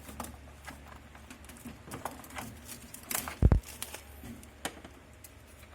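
Scattered light clicks and taps of hands handling a hair dryer's cord and plug while it is being plugged into a wall outlet, with one low thump about three and a half seconds in; the dryer is not yet running.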